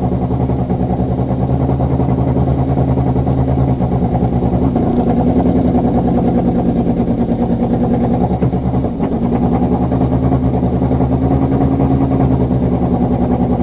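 Race car's 1.6-litre engine idling with a steady pulsing note and a slight change in pitch about a third of the way in. It is running with a misfire.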